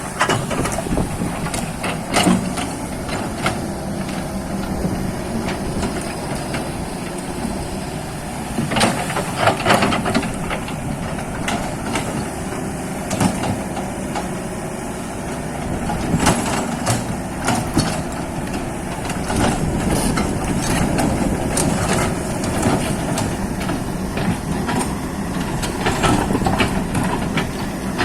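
Excavator's diesel engine running steadily under load, with repeated metallic clanks and knocks from the machine working, most of them about a third of the way in and again past halfway.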